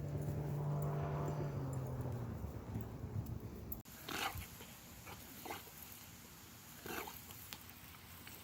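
A steady low hum for nearly four seconds that cuts off suddenly, followed by a few short, faint animal sounds.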